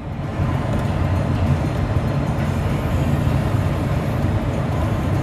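Steady low rumble of a 2018 Ford F150 pickup idling, heard from inside its cabin.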